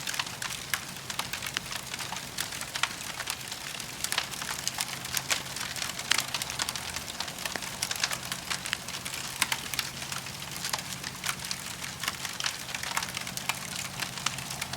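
Wood campfire crackling: irregular sharp snaps and clicks over a steady hiss, with a faint low steady hum underneath.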